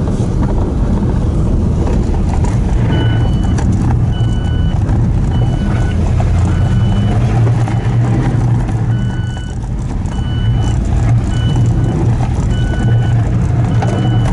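Daihatsu Hijet kei truck engine running steadily under load. From about three seconds in, a repeating electronic beep sounds roughly once a second, typical of a reverse-gear warning beeper.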